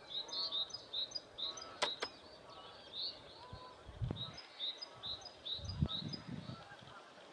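Small birds chirping: short, high notes repeating two or three times a second. There are two sharp clicks about two seconds in, and low rumbles near four and six seconds.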